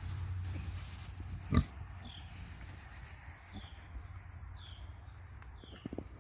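Kune Kune pigs grunting, with one sharp loud sound about a second and a half in. A bird call, a short falling chirp, repeats about once a second after it.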